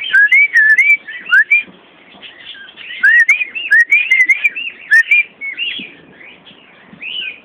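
A flock of small birds chirping, a rapid stream of short whistled notes that swoop up and down and overlap, busiest at the start and again from about three seconds in.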